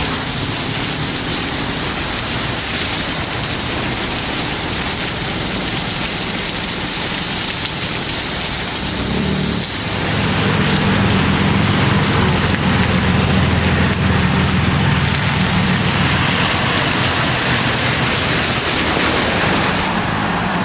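Heavy rain and storm wind, a loud steady rush. About halfway through it gets louder and a low steady hum, like an engine running, joins it for most of the rest.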